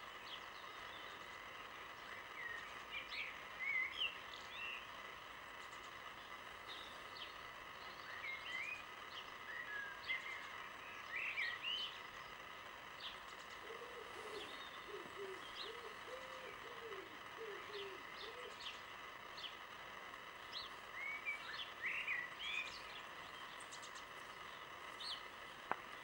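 Wild birds singing short high phrases in three bouts, with a series of lower repeated calls midway, over a steady outdoor background hiss.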